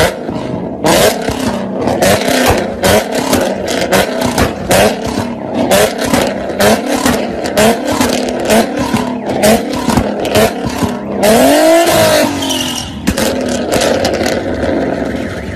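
Loud car exhaust as the engine is blipped over and over, each short rev rising and falling with sharp pops and bangs from the exhaust. About twelve seconds in comes one longer rev that climbs and drops back.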